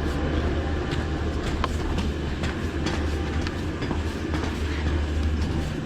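Ski lift machinery running: a steady low hum with scattered light clicks and rattles.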